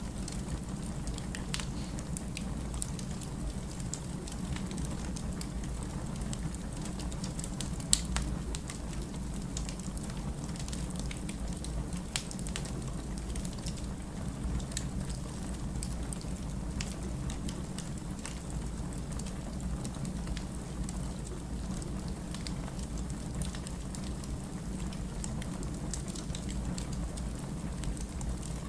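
Wood fire crackling, with scattered small pops over a steady low rumble and one sharp, louder pop about eight seconds in.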